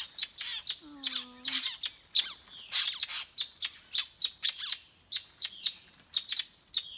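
Small yellow birds giving loud, rapid, sharp chirps and squawks, several calls a second: alarm calls from the flock circling over a grounded, injured companion. A short, lower voice-like sound falls in pitch about a second in.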